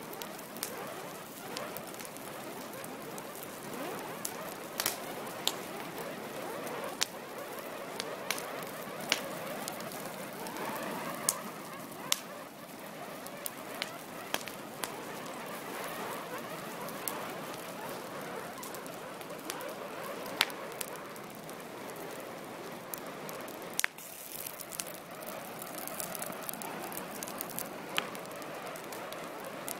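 Fire burning with a steady hissing rush and frequent sharp crackles and pops, the loudest about two-thirds of the way through.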